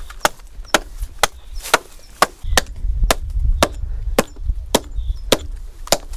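Homemade axe with a blade of railway leaf-spring steel chopping wood: a steady run of sharp blows, about two a second.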